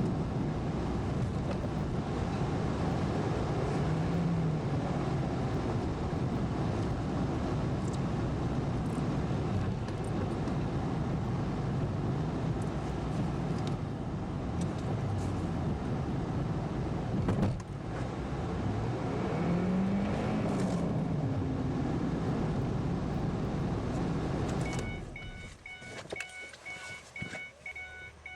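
A vehicle engine running and revving up and down in slow swells as it strains to pull free of deep snow. About 25 seconds in, the engine sound drops away and a steadily repeating electronic chime beeps.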